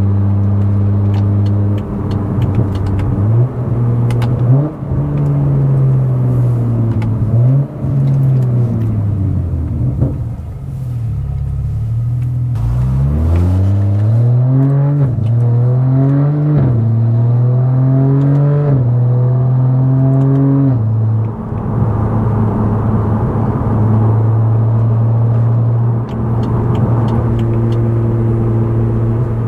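Stage 2+ tuned BMW F10 535i's turbocharged inline-six with a loud exhaust, pulling hard through the gears. The revs climb and drop at each upshift. There is one easing off with the revs falling away, another run up through three or four shifts, and then a steady cruise.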